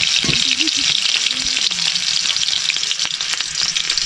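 Food frying in hot oil in a pan: a steady sizzle and crackle.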